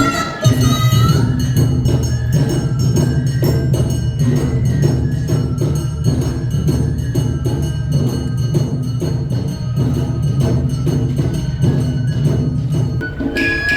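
Awa Odori festival band music: drums and a ringing metal gong struck in a fast, even beat, over a steady low rumble.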